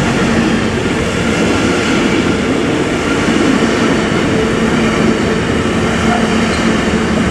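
Freight train of container and tank-container flat wagons rolling past close by: a loud, steady rolling noise of steel wheels on the rails with a faint hum underneath.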